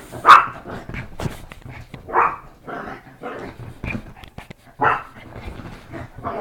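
A pet dog barking three times, about two seconds apart, with quieter rustling and clicking between the barks.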